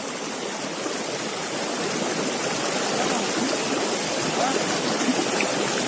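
River water flowing and rushing steadily, with a faint voice heard briefly in the background.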